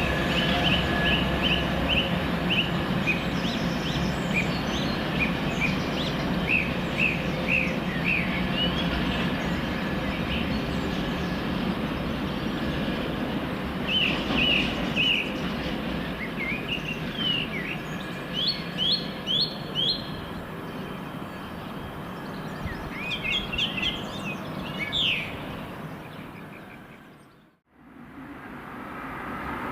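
Low rumble of a diesel freight train fading as it moves away, with small birds singing in short chirping phrases over it. Near the end the sound drops out briefly to near silence, then a steady noise returns.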